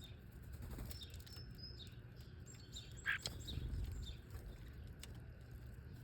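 Small birds chirping with short, high calls scattered throughout, one louder call about three seconds in, over a steady low rumble.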